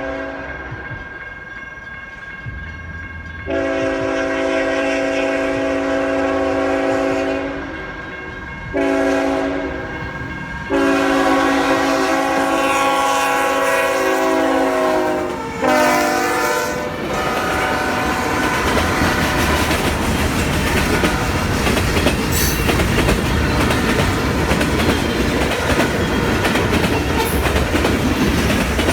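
GE ET44AH freight locomotive's multi-chime air horn sounding the grade-crossing pattern: a long blast, a short one, then a long final blast whose pitch drops as the locomotive passes. After that comes the steady rumble and clickety-clack of the freight cars rolling by on the rails.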